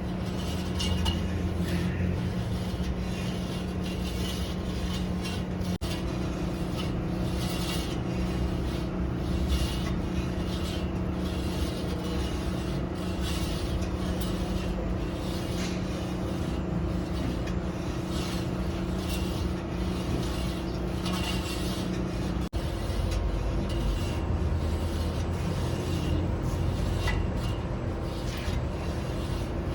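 Steady machine hum with repeated scraping strokes over it, the hum's pitch shifting twice, about 6 s in and about 22 s in.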